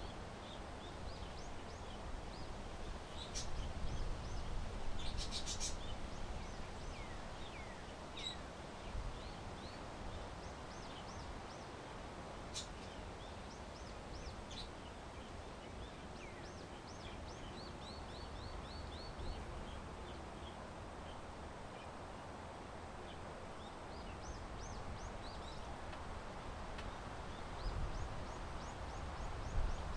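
Small birds chirping in short, high notes, sometimes in quick runs of five or six, over a low rumble of wind that swells and fades. A few sharp clicks come through about three to five seconds in.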